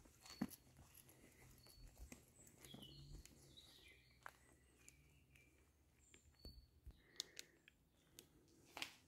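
Near silence with faint bird calls: short high chirps and a falling run of notes, with a few light clicks.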